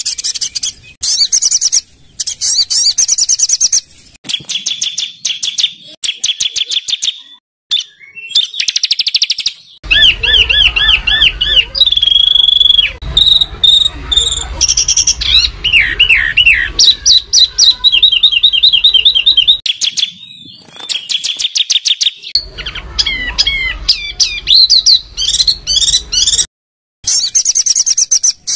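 Songbirds singing fast, harsh, rapidly repeated trills and rattling call notes at a high pitch. The audio is spliced from several recordings, with abrupt changes and short silent gaps between them.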